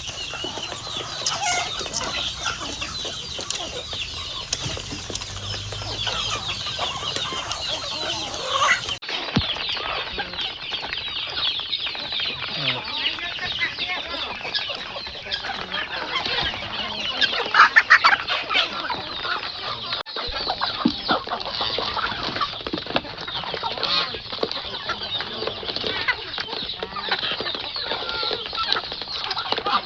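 A flock of chickens clucking and calling, many birds at once, with one louder call about eighteen seconds in.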